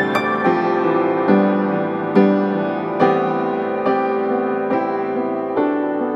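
Slow, gentle piano music, with a note or chord struck about once a second and left to ring.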